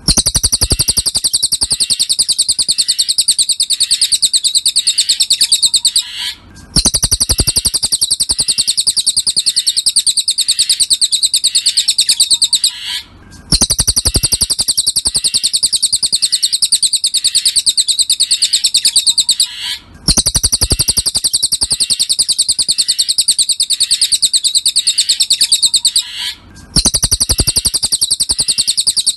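Cililin songbird recording: very fast trills of high chirps, each phrase about six seconds long, repeated with short breaks in between.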